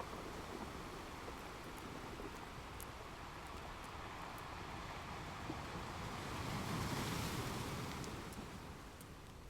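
Ocean surf: a wave rushes in, swells to its loudest about seven seconds in, then washes back and fades. A few faint crackles from a fireplace.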